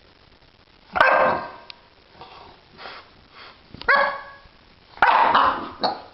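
A dog barking: three loud barks, about a second in, near four seconds and just after five seconds, with softer barks between them.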